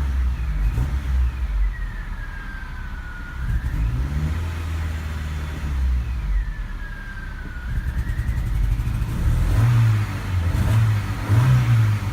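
Honda HR-V four-cylinder engine running cold and being given gas, stumbling unevenly at low revs: a cold-start misfire after weeks standing in freezing temperatures. The revs rise in louder pulses near the end, and a thin high whine falls and rises twice.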